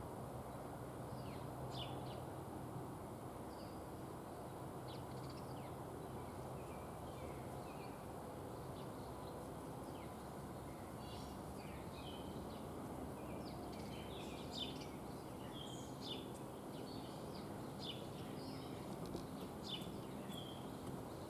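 Small birds chirping in short, high calls, scattered at first and more frequent in the second half, over a steady low background rumble.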